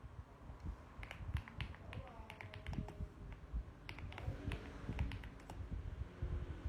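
Mechanical keyboard typing: irregular keystroke clicks in uneven bursts.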